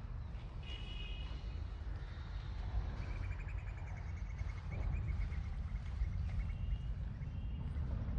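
Birds chirping: a few short high calls about a second in, then a long run of quick repeated chirps that slowly drops a little in pitch, over a steady low rumble.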